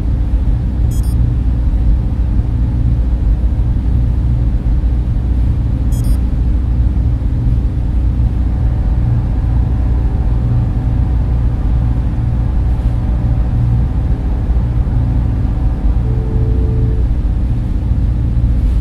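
Steady low drone of a data center's server fans and cooling equipment, with faint steady tones above it and two faint high ticks, about a second in and again about six seconds in.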